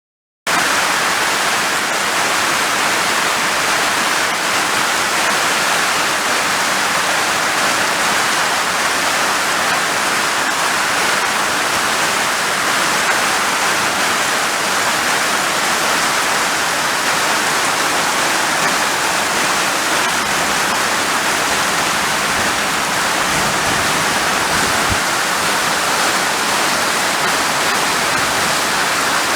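Heavy rain falling, a steady dense hiss that starts abruptly about half a second in and holds unchanged.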